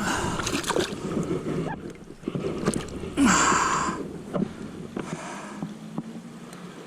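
Water splashing and sloshing in uneven bursts, with a sharp splash about three seconds in, as a small brown trout is handled at the water's edge.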